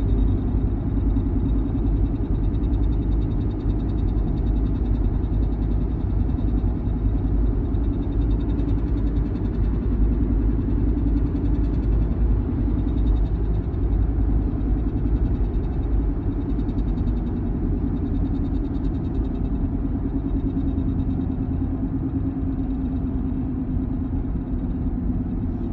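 One-year-old Porsche Macan making a steady low rumble with a drone that swells and fades every few seconds. This is the strange noise the owner is concerned about in an almost new car.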